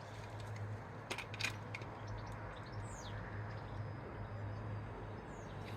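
Low steady hum with a few faint clicks and taps, and one brief falling squeak about three seconds in.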